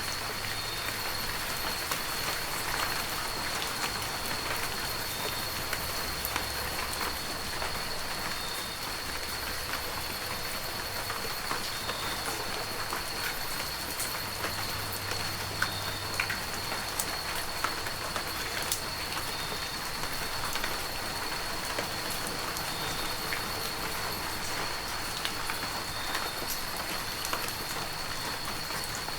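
Heavy rain falling steadily, with many separate drops striking close by. A faint, steady high tone runs underneath.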